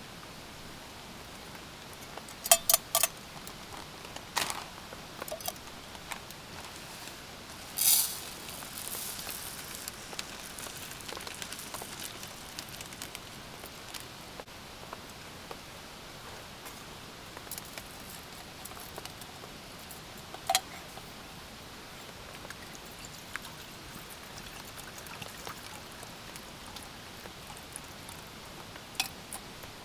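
Steady patter of rain, broken by scattered sharp clicks and knocks, with a small cluster a few seconds in and a brief louder rattle about eight seconds in.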